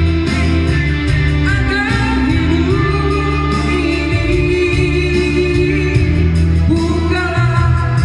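A Malay pop ballad sung to band accompaniment: a singer's gliding melody over sustained bass notes, with a light regular beat.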